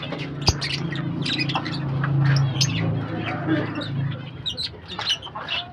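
Pet lovebirds chirping and squawking in many short, sharp calls, over a low steady hum.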